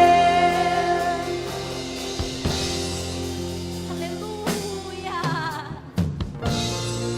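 Live worship band music with singing. A long held note fades into sustained chords, with a short sung run and a few drum hits about two-thirds of the way through.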